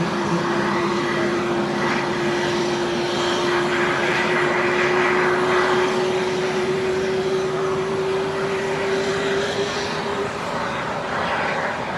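Jet engines of an Airbus A320neo running: a broad rushing noise with a steady whine that creeps slightly up in pitch and stops about ten seconds in. The engines are CFM LEAP-1A turbofans.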